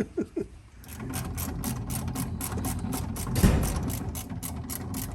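Craftsman flex-head ratcheting wrench clicking rapidly, about five clicks a second, as a fitting on a fuel tank is turned, with one louder clunk a little past halfway.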